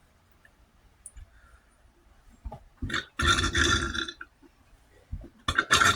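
A man's loud burp about three seconds in, lasting about a second, with shorter bursts of the same kind near the end.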